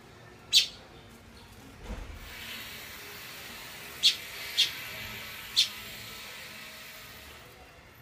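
Small birds chirping: four short, sharp calls, one about half a second in and three close together between four and six seconds, over a faint hiss. A low thump comes near two seconds.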